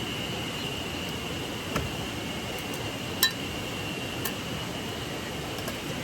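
A stream running with a steady rushing sound, under a steady high-pitched hum. Three light clinks sound over it, like a cup or cookware being handled, the loudest one about three seconds in with a short ring.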